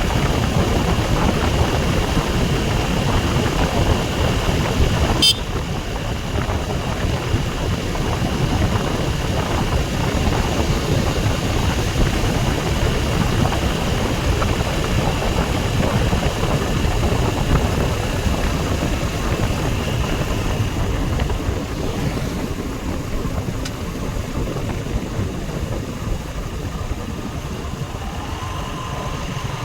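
Motorcycle on the move: engine running under a steady rush of wind noise. There is a sharp click about five seconds in, after which the sound is a little quieter, and it eases slightly near the end.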